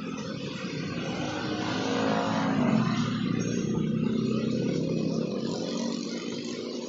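A motor vehicle passing by: its engine swells to a peak about three seconds in and then fades away, with faint high chirps above it.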